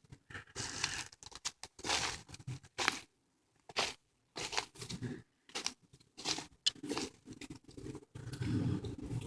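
Footsteps crunching along a woodland path, about two steps a second, with a short pause a little after three seconds.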